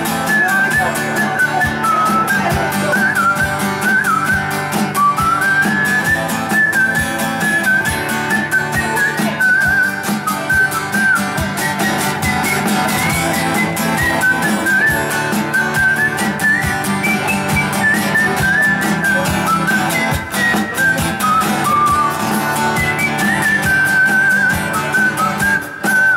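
Live instrumental passage: a whistled melody over rhythmically strummed guitar, cutting off suddenly near the end.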